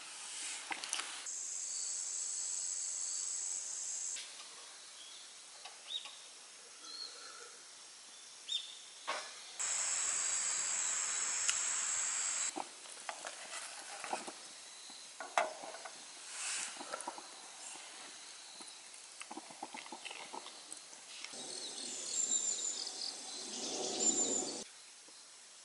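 Food sizzling on a grill in three short stretches of steady hiss that start and stop abruptly, with scattered clicks and taps of utensils in between.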